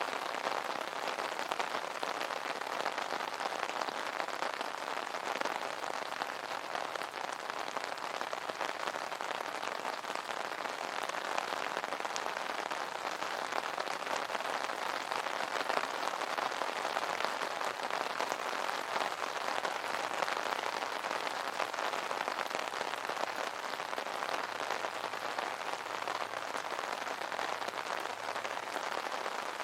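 Steady rain pattering densely on an umbrella canopy, a continuous hiss of small drop impacts.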